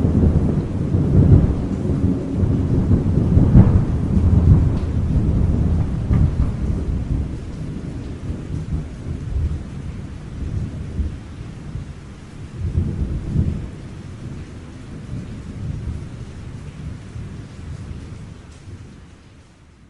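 Thunder rumbling through a rainstorm: a long rolling peal, loudest at the start, swelling again briefly about two-thirds of the way in, then dying away to almost nothing at the end. Rain hisses faintly underneath.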